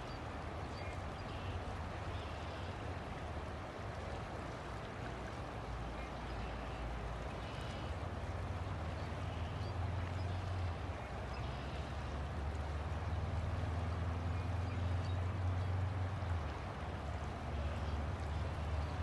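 River water flowing, a steady rushing with a deep low rumble underneath that swells and eases, and a few faint short chirps above it.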